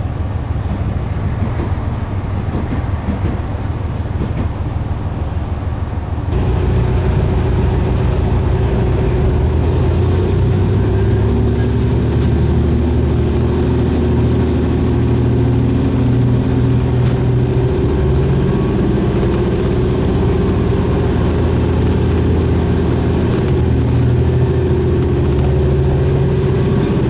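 Diesel railcar running on the San'in Main Line, a steady engine drone with track noise. It gets abruptly louder about six seconds in, then holds at the higher level.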